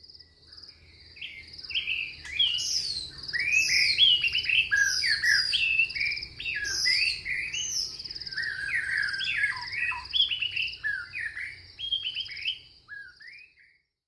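Birds chirping and calling in quick sliding notes over a steady high trill, with a faint low rumble beneath; the calls die away shortly before the end.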